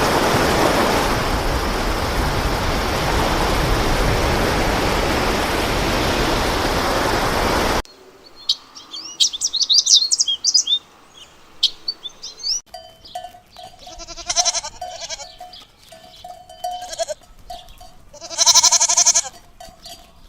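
A steady rushing noise that cuts off abruptly, then birds chirping with quick rising and falling whistles, then a goat bleating, ending with one long, loud bleat.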